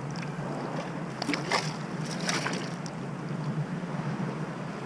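Shallow sea water sloshing and wind buffeting the microphone, with a few brief splashes about a second and a half and two and a half seconds in.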